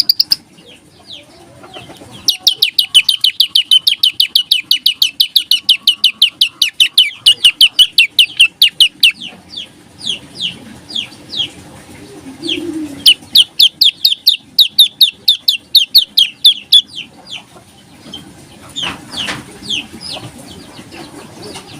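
Prenjak lumut songbird singing in full voice: two long, rapid trills of sharp, high chips at about seven notes a second, the second starting about halfway through, with scattered single chirps between and after. This rapid-fire, tight delivery is the 'nembak rapet' song that keepers prize.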